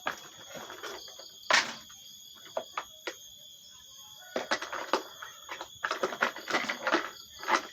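Plastic toy cars being handled and knocked together, with a sharp knock about one and a half seconds in and runs of quick clattering clicks in the second half, over a steady high tone.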